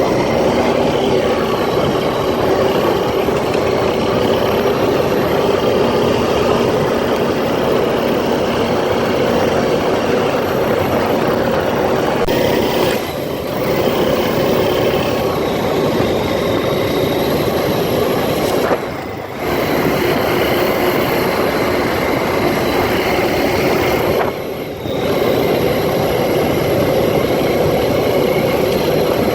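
ATV engine running steadily as the quad is ridden, a loud continuous mechanical noise. The noise drops briefly three times, about a third, two thirds and five sixths of the way through.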